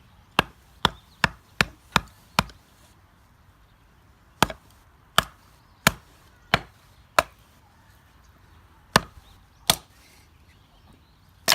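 A small blade, the Mini Manba, chopping repeatedly into a piece of firewood: sharp wooden knocks in runs, six quick strikes, then five, then two more and a last one at the end. The blade is dull and fails to split even a small piece.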